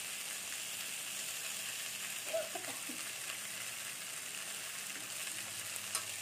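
Brinjal pieces sizzling in hot oil in a kadai, a steady hiss. A brief squeak about two and a half seconds in, and a couple of light knocks near the end.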